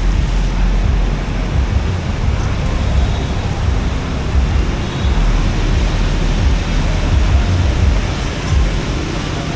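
Wind buffeting the microphone: an uneven, gusty low rumble over a steady outdoor hiss.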